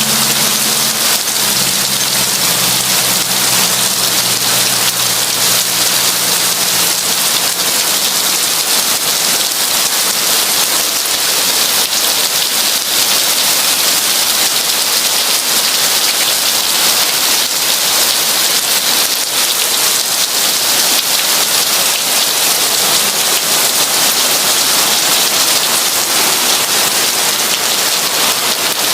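Heavy rain falling steadily, a dense even hiss of many drops. A low rumble fades out over the first several seconds.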